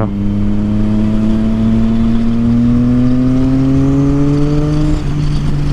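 Triumph Street Triple 675's inline-three engine through a Yoshimura exhaust, pulling steadily under way. Its note rises slowly for about five seconds, then drops to a lower, steady note near the end.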